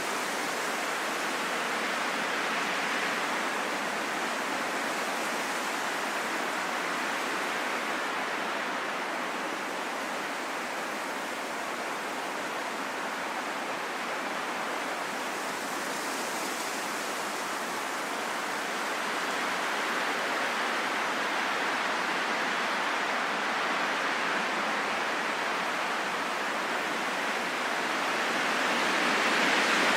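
Steady rain: a dense, even hiss that swells a little near the end.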